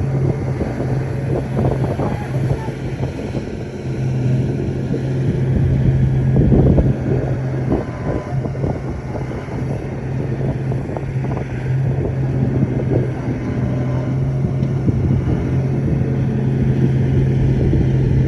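Shantui bulldozer's diesel engine running steadily under load, with scattered knocks and clanks from the machine.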